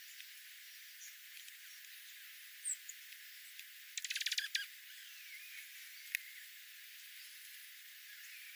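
Wild birds calling over a steady hiss: a brief high chirp, then about four seconds in a quick dry rattling chatter of rapid pulses, and a single sharp click a little later.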